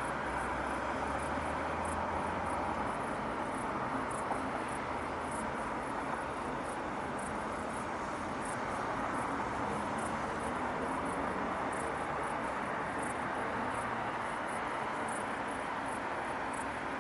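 Steady hum of distant city traffic, with crickets chirping in short high pulses about twice a second.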